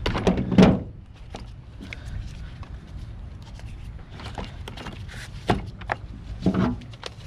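Heavy thumps and knocks of parts and tools being handled, loudest right at the start and again twice near the end, with scattered light clicks in between.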